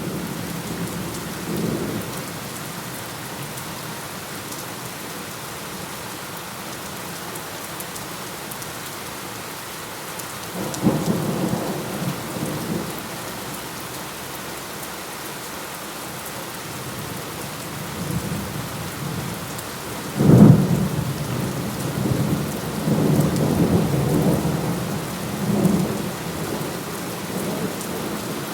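Steady rain with thunder rumbling several times. A sudden loud thunderclap comes about two-thirds of the way through and rolls on for several seconds.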